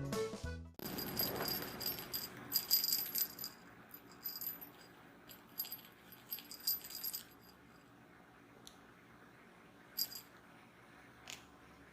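A kitten's jingly cat toy rattling in short repeated bursts as it is batted about, with a few faint clicks near the end.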